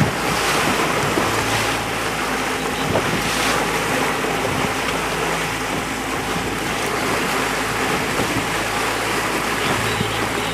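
Wind buffeting the microphone and water rushing and splashing on a boat out on the water, with a steady low hum underneath.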